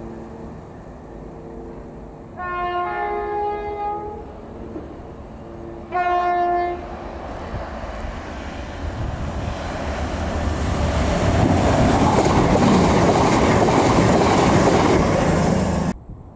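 CrossCountry Voyager diesel train sounding its two-tone horn twice, a longer blast and then a short one, then running past at speed with a rising rush of wheel and engine noise that is loudest near the end and cuts off suddenly.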